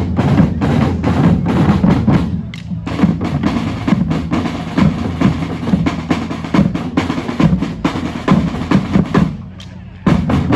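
Drum band playing: bass drums and snare drums beating a fast, dense rhythm, thinning briefly near the end before the full band comes back in.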